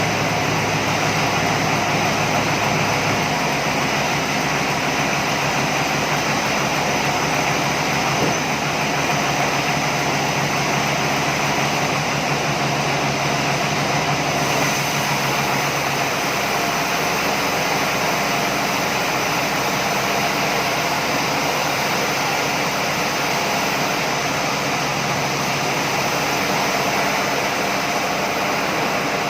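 Sawmill machinery running steadily: a loud, constant mechanical noise with a low hum underneath, one part of which drops away about three seconds in.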